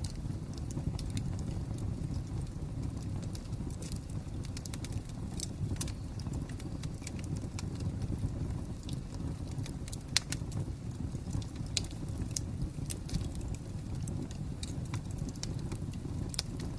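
Fire crackling: irregular sharp pops and snaps over a steady low rumble, with one louder pop about ten seconds in.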